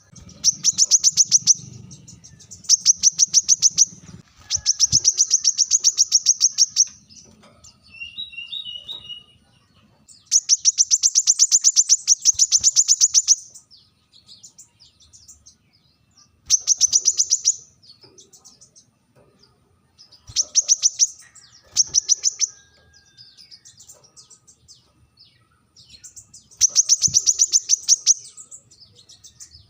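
Brown-throated sunbird (kolibri kelapa) giving sharp, rapid trills of high chirps in repeated bursts of one to three seconds, with pauses between them. A brief, lower twittering phrase comes about eight seconds in.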